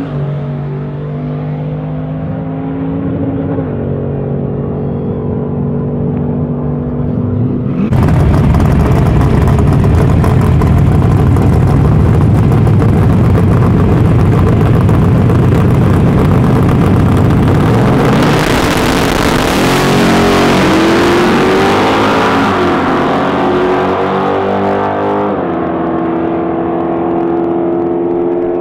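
Drag-racing car engines at full throttle. First a car pulls away down the strip, its engine pitch dropping at a gear change. About eight seconds in it gives way to a much louder, noisier close-up engine, and later the engine pitch climbs as a car revs and accelerates, settling into a steadier engine note near the end.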